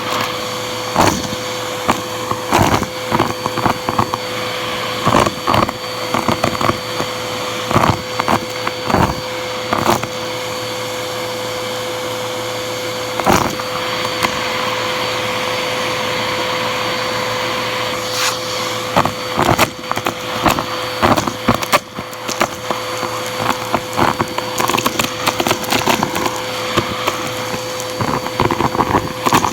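Bissell vacuum cleaner running with its hose, a steady motor whine under many sharp clicks and rattles of debris being sucked up the hose. The clatter thins out for a few seconds around the middle, then comes back.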